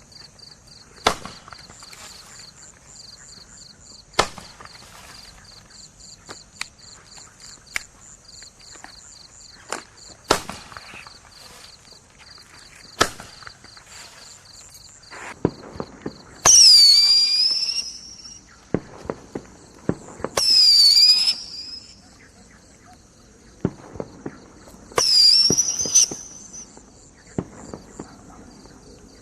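Winda Heavy Splash Roman candles firing: single sharp pops every few seconds, then from just past halfway several loud, shrill pitched effects of a second or more each, dipping and rising in pitch. Crickets chirp steadily throughout.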